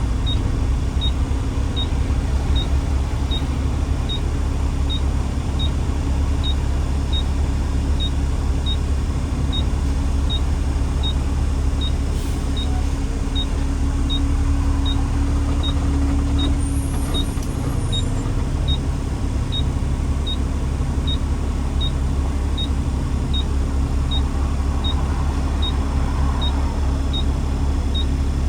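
Steady low engine and road rumble of a vehicle on the move, with a faint high tick repeating evenly about every three-quarters of a second.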